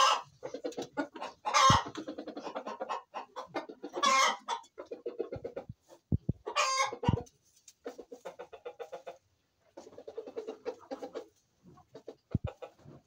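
Poultry calling: runs of quick, short low notes, with three loud short calls about two, four and seven seconds in.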